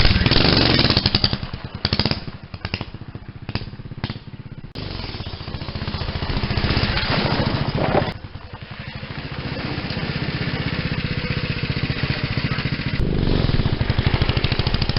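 Mini bike's small single-cylinder engine running, its carburetor freshly cleaned. The engine note rises and falls as it is ridden: it drops back about two seconds in, builds again, and grows louder near the end.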